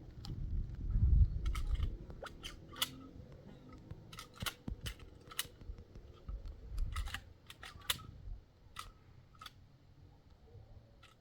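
A series of about twenty sharp, irregular clicks and snaps, with a low rumble in the first two seconds.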